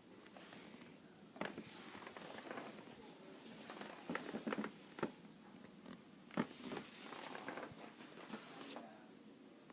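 Two pet budgerigars making soft, short chirps amid small clicks and scratches, a cluster of them about four seconds in and a sharper click near the middle.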